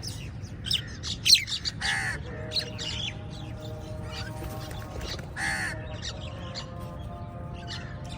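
Crows cawing, with two long caws about two seconds in and again past the middle, amid many short high chirps of other birds, over a steady low rumble.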